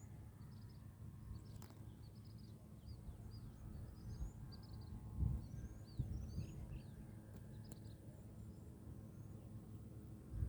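Small birds chirping, many quick high notes rising and falling in a steady stream, over a faint low rumble with a couple of louder low thumps about halfway through.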